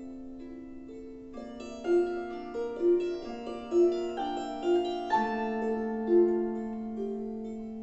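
A slow, gentle lullaby played on a single keyboard instrument: a melody of separate notes over long-held lower notes.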